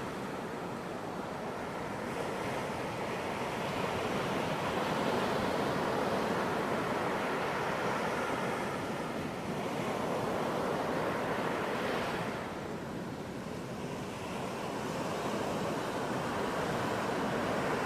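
Ocean surf breaking and washing on a beach, a steady rush of water that swells and eases over several seconds.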